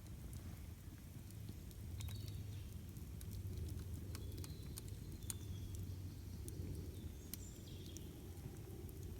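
Campfire crackling, with scattered sharp pops over a low steady rumble, while a bird gives a few short high chirps.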